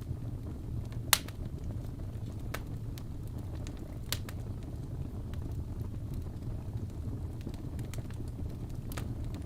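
Wood fire burning in a fireplace, a steady low rumble of flames with scattered sharp crackles and pops, the loudest pop about a second in and another about four seconds in.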